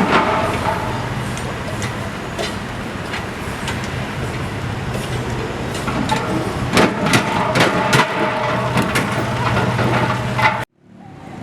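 Heavy vehicle engine running steadily, with a string of short sharp clicks or cracks a little past the middle. The sound cuts off suddenly near the end.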